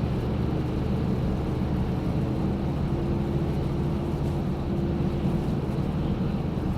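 Car driving, heard from inside the cabin: a steady, even low drone of engine and road noise.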